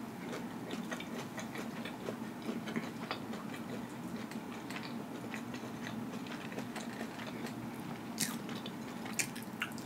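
Close-miked chewing of fried fish, with many small wet mouth clicks and smacks, a couple of them sharper near the end.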